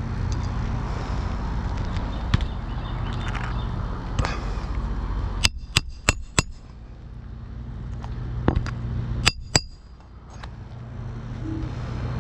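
Hammer striking roofing nails on asphalt shingles: sharp ringing metallic taps, a quick run of four about halfway through and a pair near the end, with a few single taps before, over a steady low background rumble.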